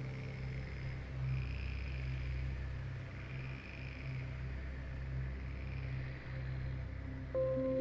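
Rainforest ambience: a faint insect chorus swelling slowly over a steady low drone. A sustained pitched tone comes in near the end.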